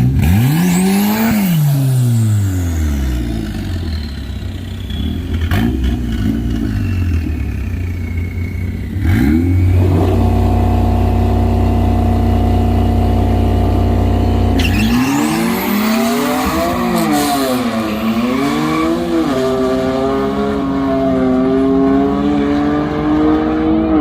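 Race cars' engines running hard on a track: one car passes near the start with its engine note rising and then falling away. A steady engine note holds for several seconds before another car sweeps past, its pitch rising and falling. Near the end an engine note climbs slowly.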